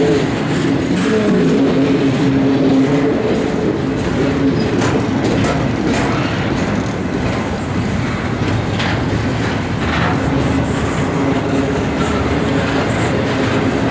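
Intermodal freight train rolling past, a steady rumble with wheels clacking over rail joints. Steady tones hum under it through the first few seconds, then fade.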